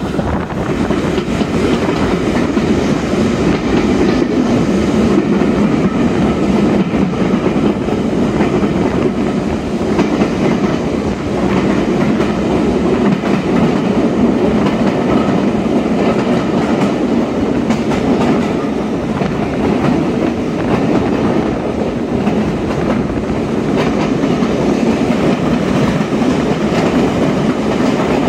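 Heritage railway carriage running through a brick tunnel, heard from an open carriage window: a loud, steady rumble of wheels on rail.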